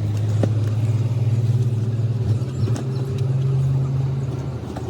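Engine running steadily at low speed, its pitch shifting slightly, with a few light metallic clicks over it.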